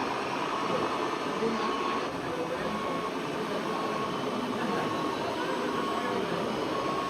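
Busy hall murmur of many voices, with a short high beep repeating about once a second.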